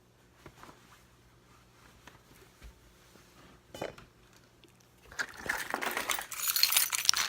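Handling noise: a single knock a little before four seconds in, then about two seconds of dense rustling and clinking near the end.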